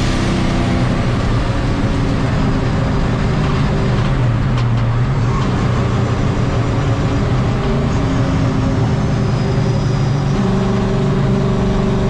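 Turbocharged engine of a 1951 Chevy race truck running hard on track, with its revs shifting up and down a few times.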